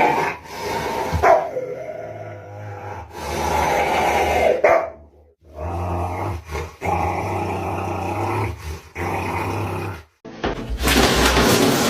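A dog growling and barking in long drawn-out snarls. The sound breaks off sharply twice and then comes back, growing louder and harsher near the end.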